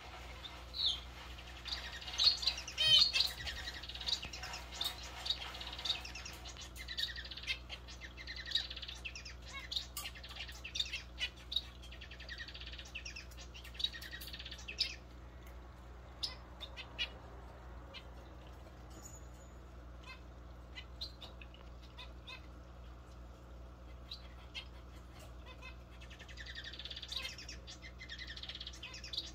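Small caged pet bird chirping in quick high twitters, busy through the first half, sparse in the middle and picking up again near the end, over a steady low hum.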